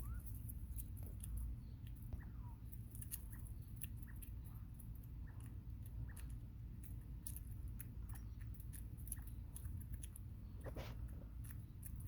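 Bobwhite quail pecking at bugs, an irregular scatter of small sharp clicks, with a couple of faint short chirps in the first few seconds over a steady low hum.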